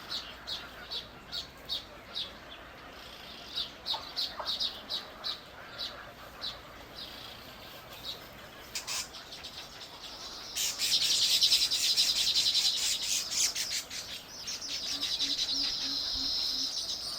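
A small bird chirping: short, high chirps about two or three a second, then a louder, rapid, buzzy chatter that starts about ten seconds in, followed by a steadier high buzz near the end.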